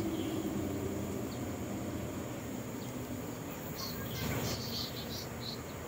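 Steady high-pitched insect trill, with a few short chirps about two-thirds of the way through, over a low background rumble.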